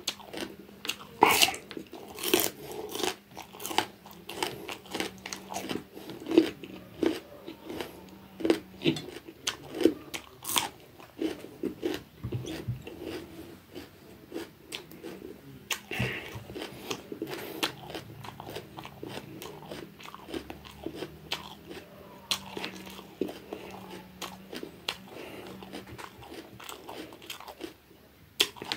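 Close chewing of raw bitter gourd: wet, crisp crunches and bites keep coming, loudest in the first few seconds and again about ten seconds in.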